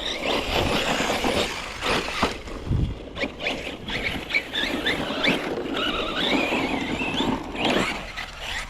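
Team Corally Kagama 6S brushless RC car driving hard: a high motor whine rising and falling with the throttle, over tyre and dirt noise, with knocks from jumps and landings.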